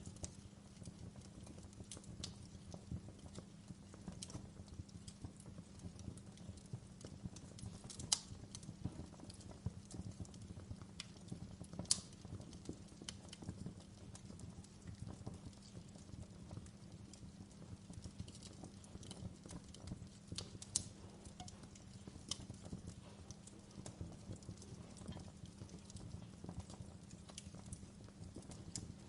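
Fire crackling: a steady low rumble under scattered sharp pops and snaps, with louder pops about eight, twelve and twenty-one seconds in.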